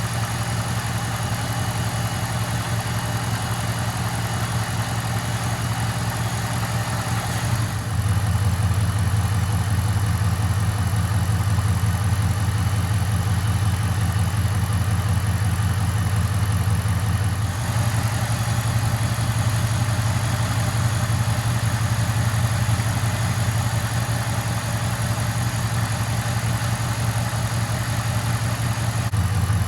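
A 2008 Dodge Dakota's 4.7-litre V8 idling steadily on 0W-20 synthetic oil, which the owner says makes it run smoother and quieter. It gets noticeably louder for about ten seconds in the middle, then drops back.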